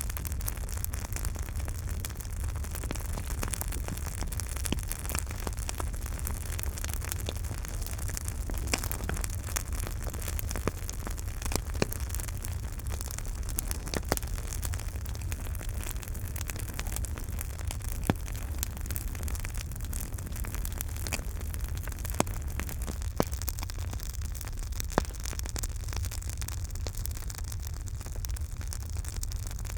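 Campfire burning with a steady low rumble and hiss, broken by irregular crackles and sharper pops of burning wood.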